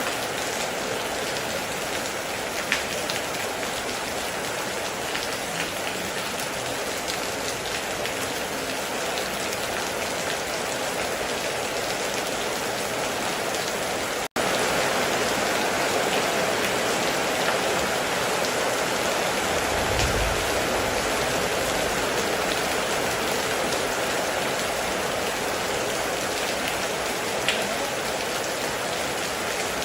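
Heavy rain falling steadily, with a few sharp louder drops. About halfway through the sound cuts out for an instant and comes back slightly louder. A short low rumble follows about 20 seconds in.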